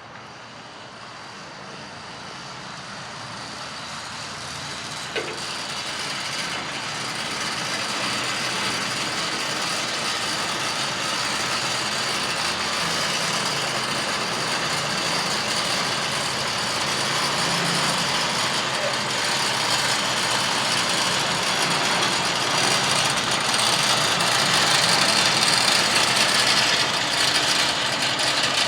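Heavy diesel truck engine running, growing steadily louder throughout as the truck comes closer.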